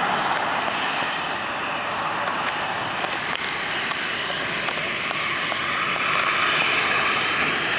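Boeing 737-800 jet engines (CFM56-7B turbofans) running at close range, a steady dense rushing noise that eases a little mid-way and swells again near the end.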